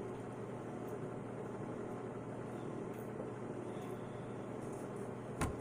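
Steady low mechanical hum of room background noise, with one short knock near the end.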